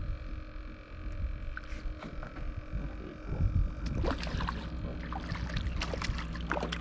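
Water sloshing and splashing around a small jon boat, with quick knocks and rattles on the hull from about four seconds in, over a low steady rumble.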